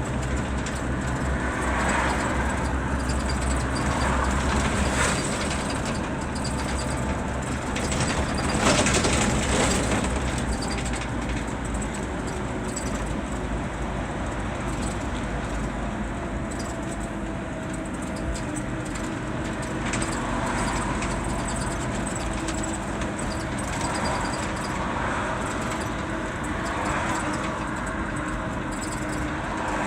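Scania K 320 UB bus driving along, its diesel engine running steadily under a constant rush of road and tyre noise. The rush swells now and then, loudest about eight to ten seconds in.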